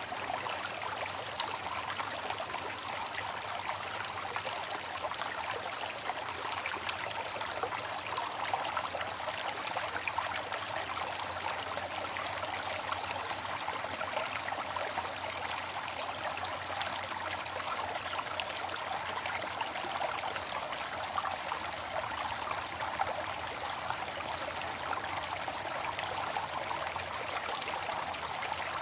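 Water fountain splashing and trickling steadily, a continuous even rush of falling water with fine splatter.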